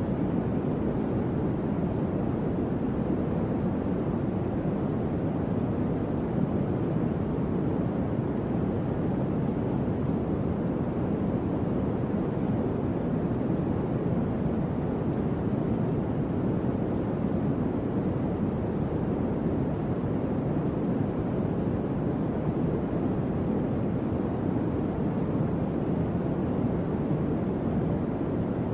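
Electric fan running steadily, a smooth even whoosh weighted toward the low end.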